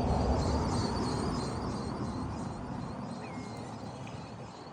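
Wind rumbling on the microphone, strongest in the first second and slowly easing off, with faint high bird chirps and one short bird call about three seconds in.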